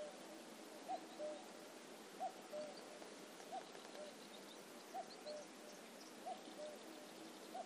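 A bird repeating a soft two-note call, a higher note then a slightly lower one, six times at an even pace of about one call every second and a quarter.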